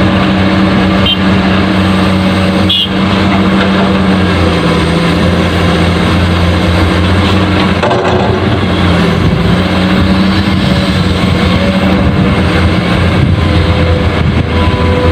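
Heavy truck engine running steadily, a continuous low hum with a deep drone.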